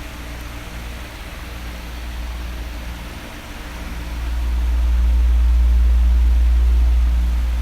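Electric fan running steadily: a broad blowing hiss over a faint motor hum. A deep low rumble swells louder about four seconds in, then eases off near the end.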